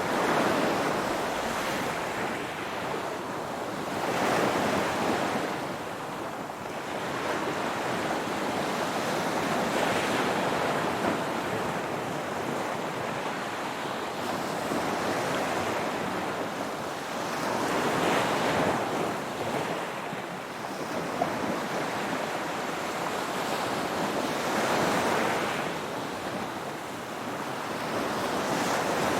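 Ocean waves breaking and washing on the shore, a continuous surf noise that swells with each wave every few seconds.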